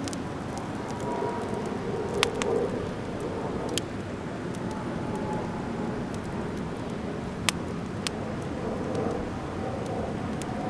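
Driftwood fire burning with a steady hiss, broken by a few sharp crackling pops, four of them standing out.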